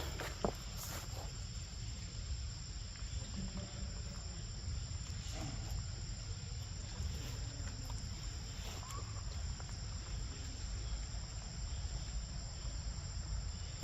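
A steady, high-pitched chorus of insects trilling without a break, over a low rumble, with a few faint ticks and a click about half a second in.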